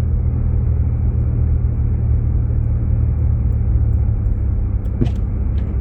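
Steady low rumble of a Jeep Grand Cherokee driving on a snowy road, heard from inside the cabin: road and engine noise. There is a short click about five seconds in.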